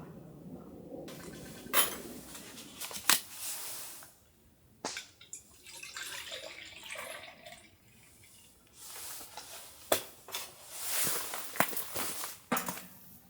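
Camp tableware being handled: several sharp clinks and knocks spread through, with softer rustling between them.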